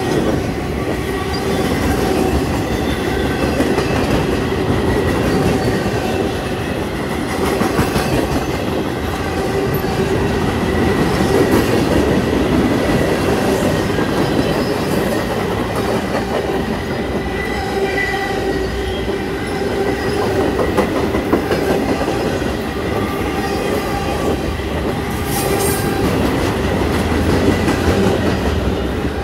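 Freight train's loaded flatcars rolling past close by: a steady rumble of steel wheels on rail, rhythmic clacking over the rail joints, and a continuous high-pitched wheel squeal.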